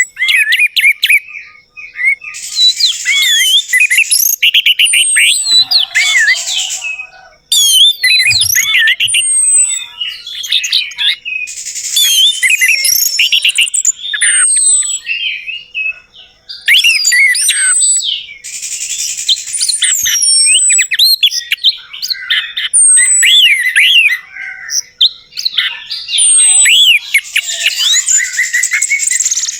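Orange-headed thrush song: a rapid, varied run of whistled and chirping phrases with sharp up-and-down sweeps. It comes in recorded segments that cut in and out abruptly, some with a hissy background.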